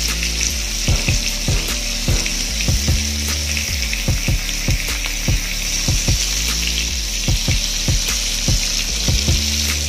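Chicken leg quarters sizzling as they fry in oil and melted butter in a pan, a steady crackling hiss. Background music with a steady beat plays over it.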